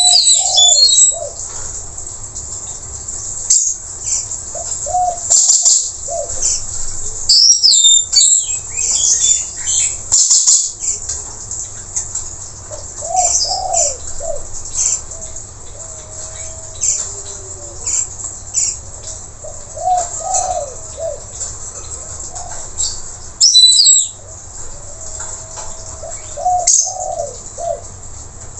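Blue-rumped parrot (nuri tanau) calling: irregular bursts of short, sharp high-pitched chirps and whistled glides. Softer, lower warbled notes come in between, and the two loudest calls fall about 8 seconds and 24 seconds in.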